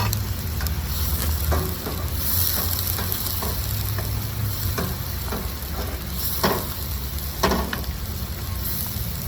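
Onion paste frying in butter in a pan, a steady sizzle, while a spoon stirs it, knocking and scraping against the pan several times, two louder knocks in the second half.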